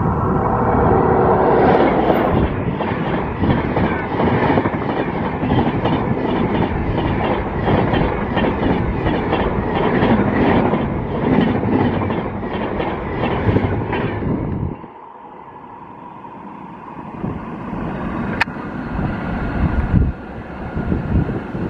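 Express passenger train passing at speed, its coach wheels clattering over the rail joints in an even rhythm. The noise cuts off sharply as the last coach goes by, leaving gusts of wind on the microphone and a single click.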